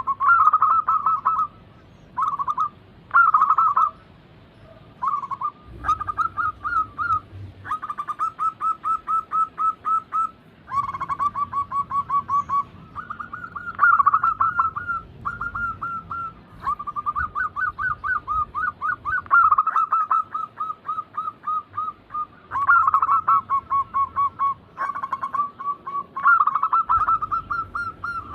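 Zebra doves (perkutut) cooing: phrase after phrase of rapid staccato notes with short pauses between.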